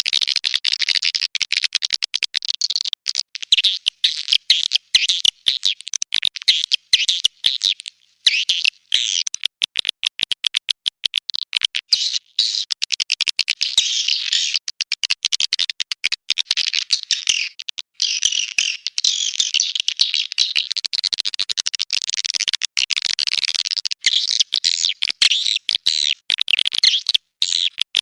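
Swiftlet calls played as a lure sound for a swiftlet nesting house: a dense, rapid stream of high, chattering chirps with a few brief breaks.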